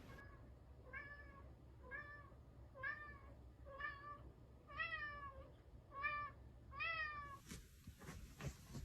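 A cat meowing over and over, seven short meows about a second apart, the last few longer and falling in pitch. Near the end the meowing stops and a few sharp clicks or knocks follow.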